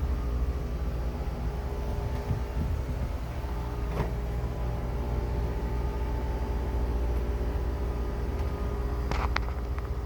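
Steady low machine hum with a constant pitch, with a single sharp click about four seconds in.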